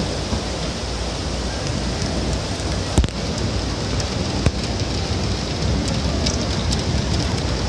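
Rain falling steadily as an even hiss, with a couple of sharp clicks about three and four and a half seconds in.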